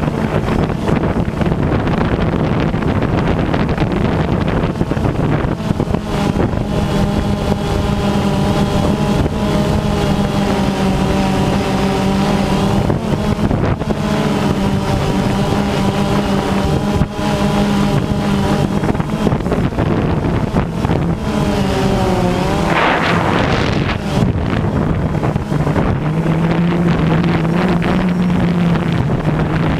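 DJI Phantom 2 quadcopter's motors and propellers humming in flight, with strong wind buffeting the microphone. Around twenty-two seconds in, the hum glides down in pitch, with a brief rush of noise, then settles at a lower pitch.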